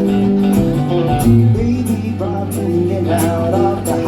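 Live band playing the instrumental lead-in of a country-rock song, with strummed guitars over a steady beat.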